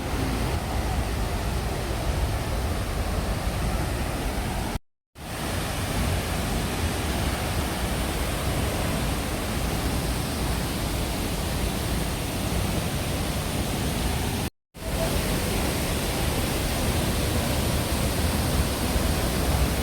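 Tegenungan Waterfall's steady rushing water noise, which cuts out to silence briefly twice, about five seconds in and again near fifteen seconds.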